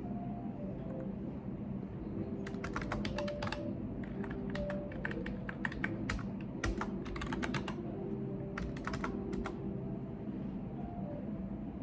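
Computer keyboard typing in quick bursts of keystrokes. It starts about two and a half seconds in and stops about two seconds before the end, over a steady low background hum.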